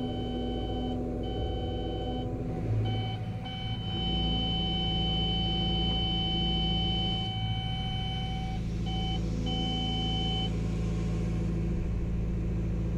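Caterpillar backhoe loader's diesel engine running with the hydraulics working the boom, while the Cat e-fence warning tone sounds as a steady high tone, broken by a few short gaps, and stops about ten seconds in. The tone signals that the boom has reached the e-ceiling height limit and is being held there.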